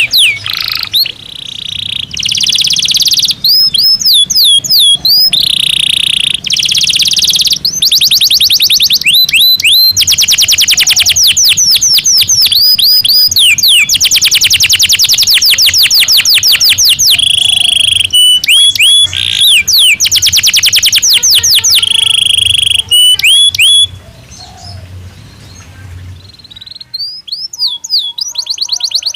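Domestic canary singing a long song of fast trills, rapid repeated-note rolls and sliding whistled notes. The song breaks off for a few seconds near the end, then starts again.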